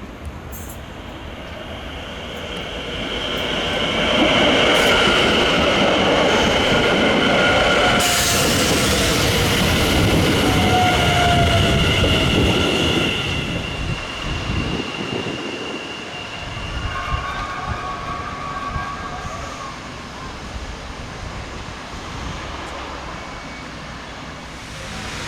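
NS Sprinter Nieuwe Generatie electric multiple unit passing, its rumble building to a peak about four seconds in, holding for several seconds, then fading away. High, steady whining tones sound over the rumble while it is loudest.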